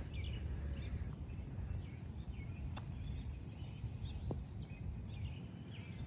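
Birds chirping and calling over a steady low rumble of outdoor background noise, with one sharp click about three seconds in.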